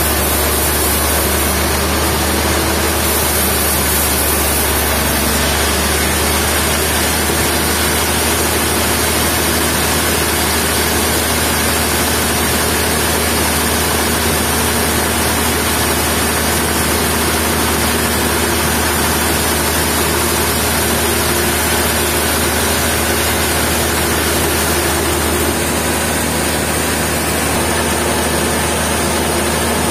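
Sawmill machinery running steadily with a loud, continuous mechanical noise and low hum, shifting slightly in tone near the end.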